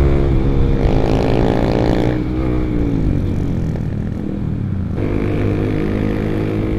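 Honda CBR150R's single-cylinder 150 cc engine running through an R9 aftermarket exhaust while riding: a steady engine note that drops in pitch about two seconds in as the throttle comes off, then picks up again strongly about five seconds in.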